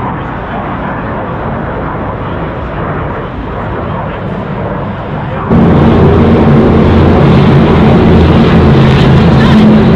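Loud engine noise from cars running at a motor speedway: first a rough rumble, then, after a sudden cut about five and a half seconds in, a much louder engine holding a steady pitch.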